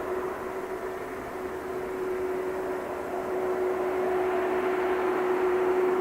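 Boeing 767-300 jet engines running, a steady whine over a broad rush of engine noise that grows gradually louder through the second half.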